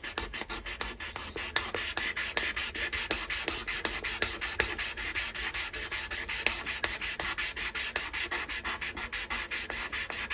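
400-grit sandpaper rubbed back and forth along a steel knife blade by hand, in quick, even strokes, several a second, as the blade is brought up to a finer finish.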